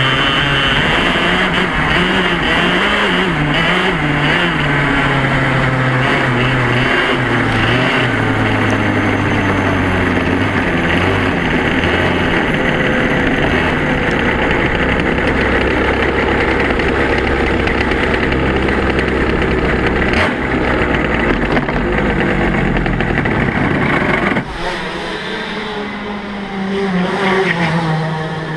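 Yamaha KT100 two-stroke kart engine running hard, its pitch wavering up and down early on and then settling lower and steady, before the level drops suddenly about 24 seconds in. The chain is slipping on a front sprocket worn smooth of its teeth, after the engine mount came loose and let the chain go slack.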